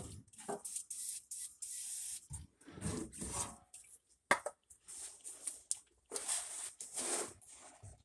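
Aerosol can of PB Blaster penetrating oil spraying in two hissing bursts, the first about a second in and the second about six seconds in, with a sharp click and rustling of hands and tools between them.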